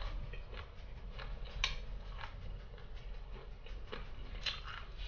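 Close-miked chewing of sauce-coated crispy fried chicken: scattered soft crackles and clicks from the mouth, with two sharper crunches about one and a half seconds in and again near the end.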